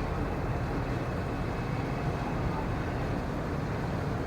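Steady, even rumbling noise, strongest in the low end, with no distinct events.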